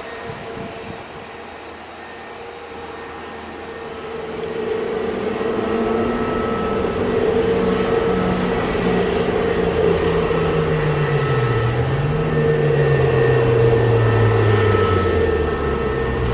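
Jet airliner, an Airbus A320neo with CFM LEAP-1A turbofans, running as it passes. It grows louder about four seconds in, with a steady hum and lower tones that slide down in pitch toward the end.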